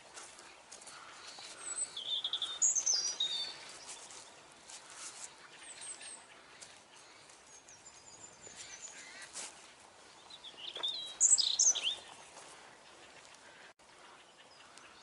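Small songbirds singing and chirping in woodland, with two louder bursts of high song, one a couple of seconds in and one about three-quarters of the way through, and fainter calls between.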